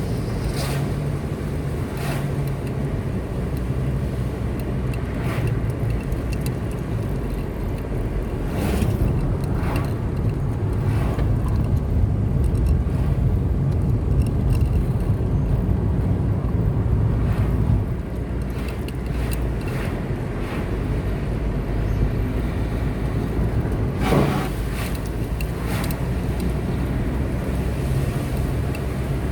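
Car driving along a road: steady engine and tyre rumble, a little louder in the middle stretch, with a few brief sharp noises scattered through.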